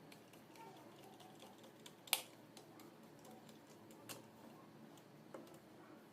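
A few scattered sharp clicks or taps over a faint steady background, the loudest one about two seconds in.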